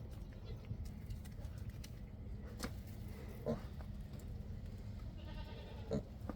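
A farm animal gives a brief high, bleat-like call about five seconds in, among a few short low grunts or knocks.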